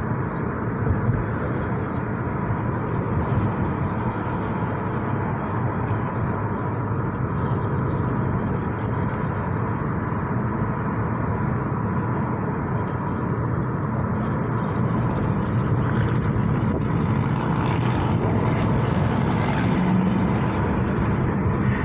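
Steady, continuous vehicle rumble, heaviest in the low end, with a faint steady whine, growing a little louder in the second half.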